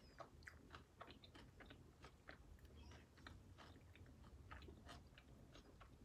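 Faint close-up chewing of a soft mouthful with guacamole: a steady run of small, irregular mouth clicks, several a second.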